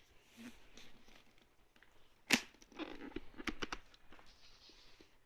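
Hard plastic clicks from working the air-vent slider on an HJC RPHA 10 Plus motorcycle helmet, with rubbing and handling of the shell. There is one sharp click about two seconds in, then a quick run of smaller clicks.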